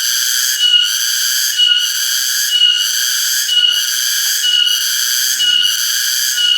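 Cicadas calling in a loud, continuous high-pitched drone that swells in a regular pulse about once a second, each pulse topped by a brief shrill note.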